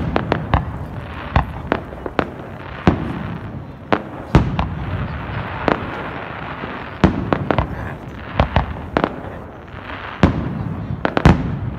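New Year's Eve fireworks going off: many sharp bangs at irregular intervals, some in quick clusters, over a steady background of noise.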